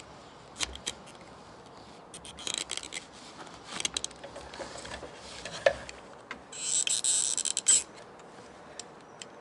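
Clicks and short scrapes of the plastic fuel pump assembly being worked open by hand, with a longer rasping scrape of about a second two-thirds of the way through.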